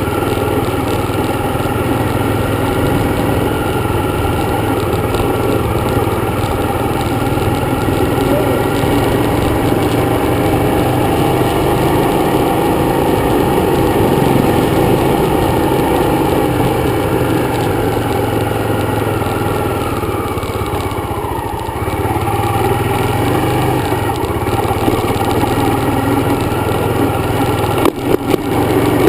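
Dirt bike engine running steadily while riding. The engine note falls and eases off about two-thirds of the way through, then picks up again, with a few sharp knocks near the end.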